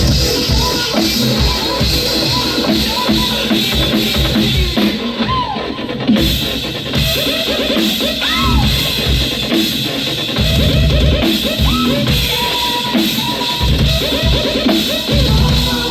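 A band playing an instrumental passage, the drum kit prominent with bass drum and snare, under many short bending melodic notes.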